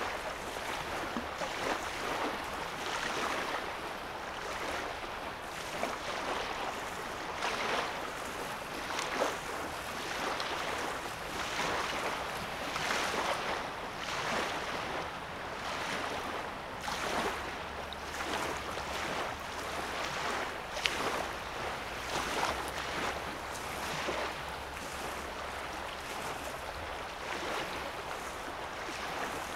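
Small lake wavelets lapping at the shore, a soft splash about every second over a steady wash of water.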